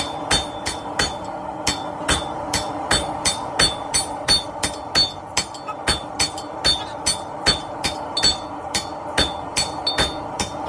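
Hammer and sledgehammer blows on hot 1-inch round steel bar over an anvil, striking in a steady rhythm of about two and a half blows a second, each blow with a short metallic ring.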